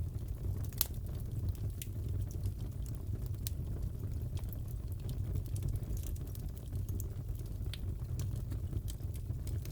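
Fireplace fire crackling: irregular sharp pops and snaps, roughly one clear one a second with fainter ones between, over a steady low sound of burning.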